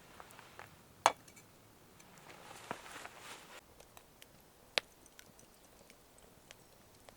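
A few sharp, separate clicks or knocks, the loudest about a second in and another near five seconds, with a brief soft hiss around the middle.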